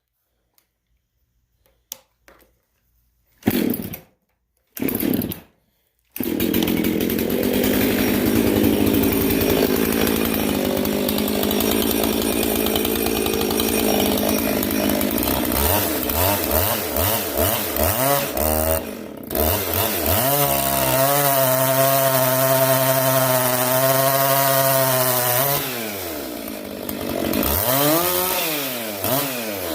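Husqvarna 262 two-stroke chainsaw, its chain freshly touched up: two short pulls of the starter, then the engine catches about six seconds in and runs. It is revved up and down repeatedly and held at high revs for several seconds.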